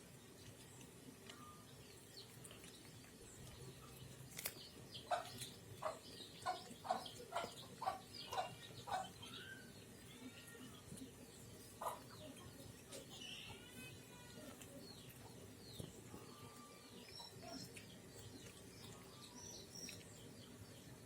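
Faint bird calls: a quick series of about eight short, evenly spaced notes, followed by scattered chirps.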